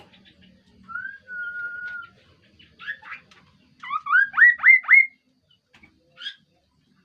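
Kaso-kaso bird calling: a steady whistled note held for about a second, a few short rough notes, then a run of about five quick rising whistles, the loudest part of the call.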